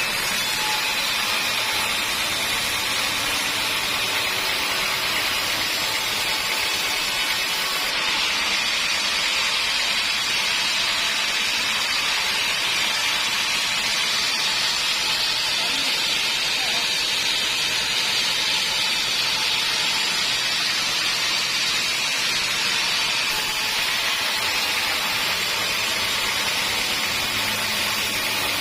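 Homemade band sawmill cutting through a teak log: a steady, high hissing saw noise at an even level.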